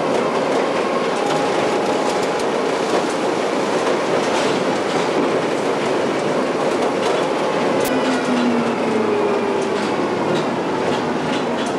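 Rail vehicle running along the track: a steady loud rumble with scattered clicks of the wheels over rail joints and faint whining tones that drift in pitch.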